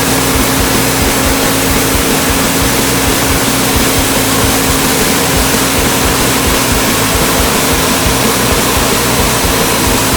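Homemade band sawmill running, its Ford industrial engine driving the band saw: a loud, steady mechanical noise with a constant hum that does not change.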